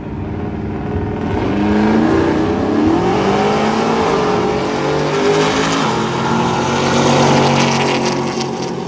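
Loud engine of a drag-racing vehicle accelerating hard down the strip. Its pitch rises over a few seconds and then holds, with another surge later.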